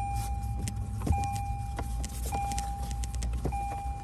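A car's warning chime repeating steadily, one held tone a little more than once a second, over a low hum and a few light clicks of cable and plastic trim being handled.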